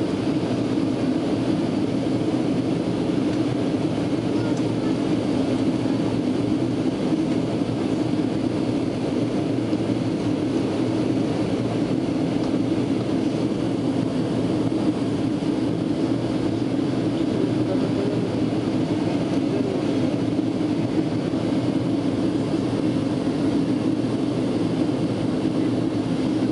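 Steady drone of a Boeing airliner's jet engines and airflow heard inside the passenger cabin in flight, an even low rumble with a hiss above it.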